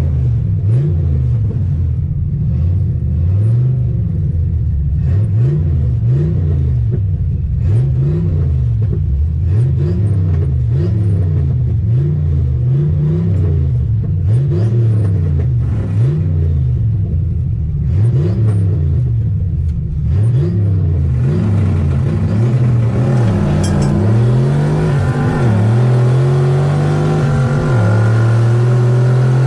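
Turbocharged 1988 Ford Mustang GT 302 V8 being revved up and down over and over, about once every second and a half. In the last third the sound grows noisier and the engine climbs to a higher, held speed.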